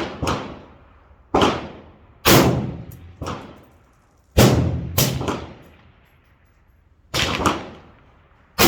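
Rifle shots from an AR-15-pattern 5.56 carbine, about ten sharp reports at an irregular pace of one or two a second. Each has a ringing tail, and some are fainter than others.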